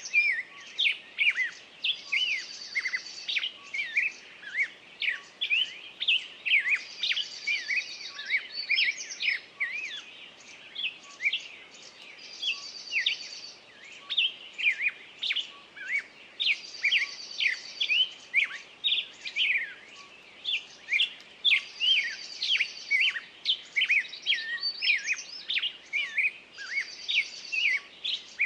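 Songbirds singing: a steady stream of quick chirps, with one bird repeating a short, high trill about every four to five seconds.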